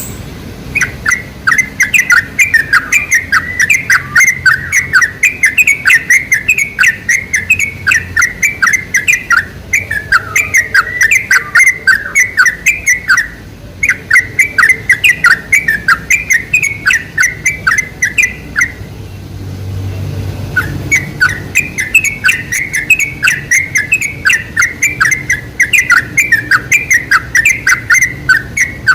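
Sooty-headed bulbul (trucuk) singing a fast, chattering string of short, rising-and-falling notes, broken by two short pauses, one about halfway through and one a little later.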